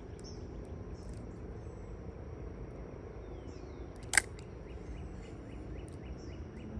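Quiet outdoor ambience: a low steady rumble under a faint, steady high insect drone and scattered bird chirps, with one sharp click about four seconds in.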